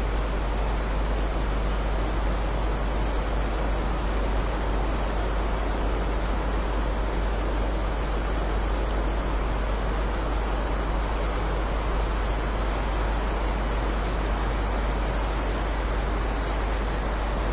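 Heavy rain falling in a steady, even hiss, with a constant deep rumble underneath.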